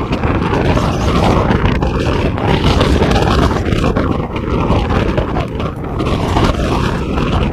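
Strong wind rushing and buffeting the microphone, a loud, steady rumbling noise.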